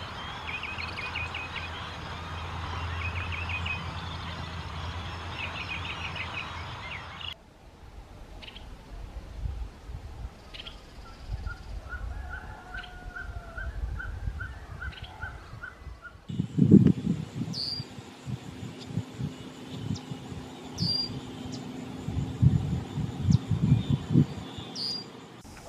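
Birds calling in three spliced recordings: first repeated short chirping trills, then a run of about a dozen evenly spaced notes, then sharp high calls every second or two over loud low thumps and rumble.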